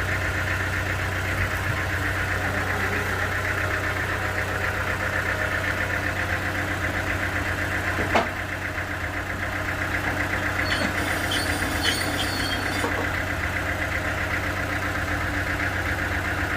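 An engine running steadily at a constant speed, with a single sharp knock about eight seconds in.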